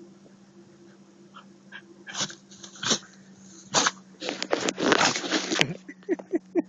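A husky sneezing repeatedly: single sudden sneezes a couple of seconds in, then a dense run of them for over a second, followed by a few short pitched sounds from the dog near the end.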